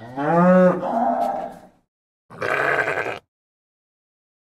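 A Hereford cow moos once, a long call that rises in pitch, then about two seconds in a goat gives one short bleat.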